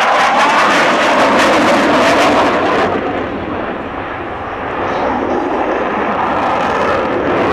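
Aircraft flying past at an airshow with a loud engine roar that eases about three seconds in, then builds again.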